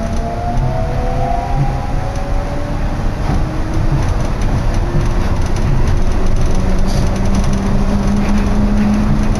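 Inside a New Shuttle rubber-tyred guideway car on the move: a steady running rumble with the drive motor's whine, several thin tones rising slowly in pitch as it gathers speed. It grows a little louder about four seconds in.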